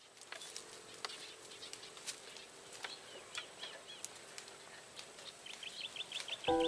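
Outdoor ambience of scattered bird chirps and faint clicks, with a quick run of repeated chirps near the end. A sustained music chord comes in just before the end.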